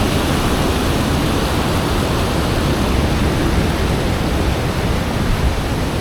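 Waterfall, water rushing loudly and steadily, close to the microphone.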